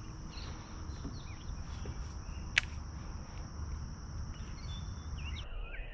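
Insects trilling steadily in a high, even tone, with a few short chirps over it and one sharp click about two and a half seconds in. Near the end the high trill stops and a lower-pitched steady trill takes its place.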